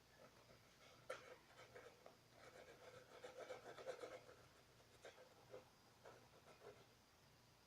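Faint scratching and rubbing of a paintbrush on a plastic bottle, with small ticks, busiest around three to four seconds in.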